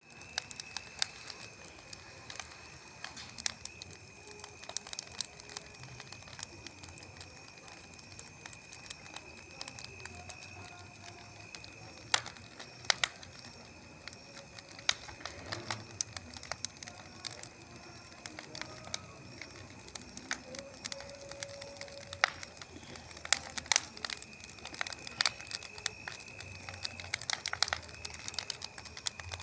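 Wood bonfire crackling, with irregular sharp pops over a low steady rush and a steady high-pitched tone behind it.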